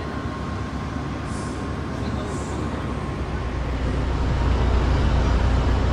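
Steady low rumble of a Brightline diesel locomotive idling at the platform, over a constant hiss, growing louder about halfway through.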